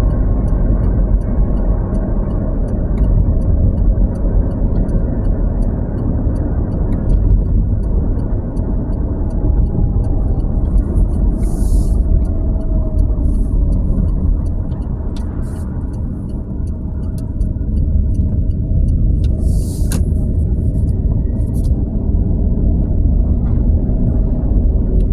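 Steady low road and engine rumble of a moving truck, heard from inside the cab. Two short hisses of air come about 11 and 20 seconds in.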